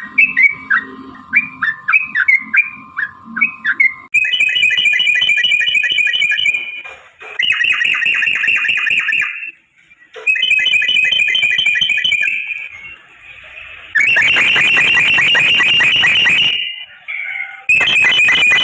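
Yellow-vented bulbul (trucukan) song. A few seconds of short, chirpy notes over a steady faint tone give way to long, rapid, rattling trill series ("ropel"). These come in runs of two to three seconds, split by brief pauses.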